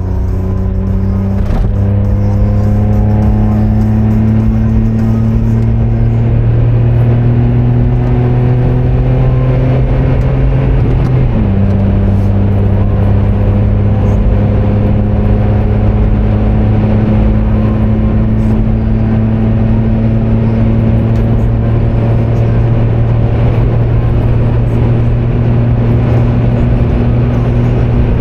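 Car engine pulling under acceleration, its pitch rising slowly for about eleven seconds. It drops suddenly at a gear change, then holds nearly steady at cruise over road and wind noise.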